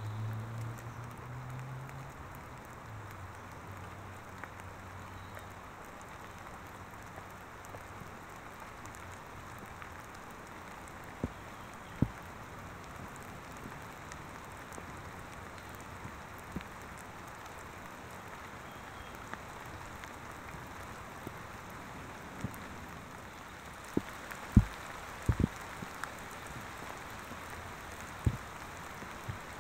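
Rain: a steady hiss of rainfall with scattered sharp clicks of raindrops striking the camcorder's external microphone, several of the loudest clicks near the end.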